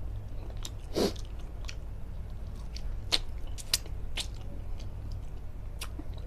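Close-up chewing and biting of a mouthful of long beans in shrimp-paste chilli sauce, with wet mouth clicks about a second in and again around three to four seconds. A steady low hum runs underneath.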